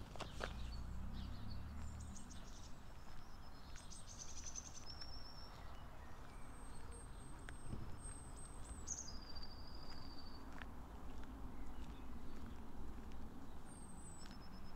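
Small songbirds chirping, with several high, thin calls and quick trills, over a steady low background rumble.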